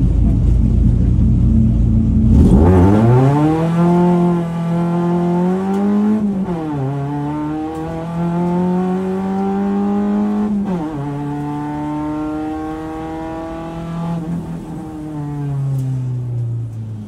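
Mk3 Volkswagen Golf race car's engine heard from inside the stripped cabin, pulling hard: after a low rumble the revs climb sharply about two and a half seconds in, drop at upshifts about six and eleven seconds in, and fall away over the last few seconds as the car slows.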